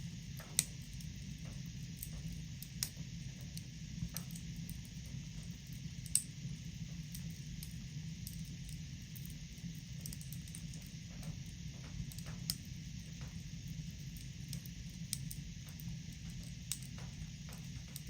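Fireplace fire crackling: a steady low hiss with irregular sharp pops, the loudest about half a second in and about six seconds in.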